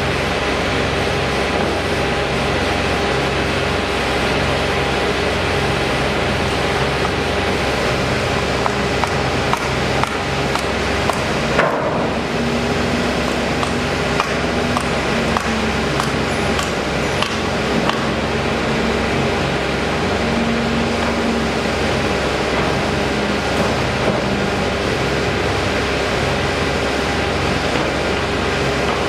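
Steady mechanical drone with several constant tones in it, and scattered light knocks and clicks through the middle of the stretch.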